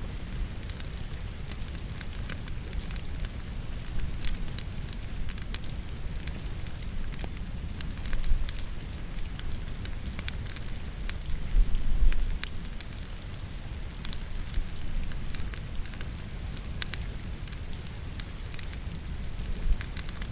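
Firewood burning in a fireplace, crackling and popping in many short sharp snaps over steady rain. A deep rumble swells briefly a few times, loudest near the middle.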